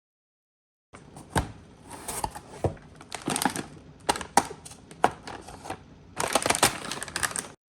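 A 3D printer filament spool's packaging being handled and opened: a string of sharp clicks and taps mixed with short bursts of plastic crinkling, and a longer crinkling rustle near the end that cuts off suddenly.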